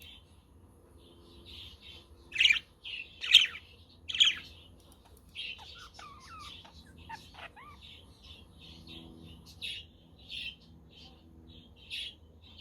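Budgerigars chirping and chattering in a steady stream of short, high calls, with three much louder sharp calls in the first few seconds.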